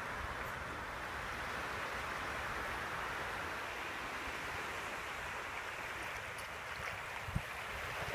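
Steady wash of small waves on a sandy beach, with wind rumbling on the microphone. A single brief knock about seven seconds in.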